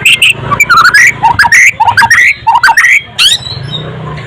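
White-rumped shama (murai batu) singing a fast run of varied, sliding whistled notes, several a second.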